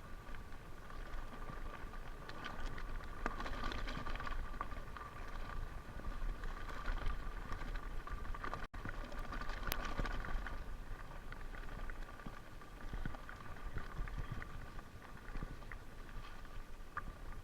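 Continuous crunching and pattering of movement along a dirt trail over leaves and gravel, with a low rumble of wind or motion under it and a momentary dropout a little past halfway.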